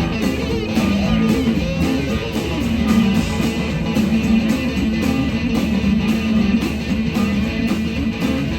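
Live rock-blues band playing loudly, with an electric guitar solo over bass and a steady drum beat.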